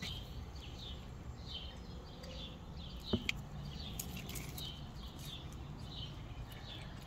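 A small bird chirping over and over, short high notes about two a second, over a low steady background rumble. A single sharp click about three seconds in.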